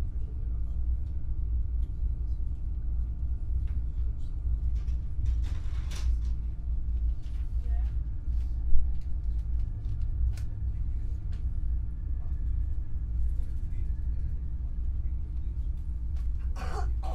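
Train running, heard from inside the carriage: a steady low rumble with a faint hum and scattered clicks and rattles. A short hiss comes about six seconds in and another just before the end, and there is one sharp knock about halfway through.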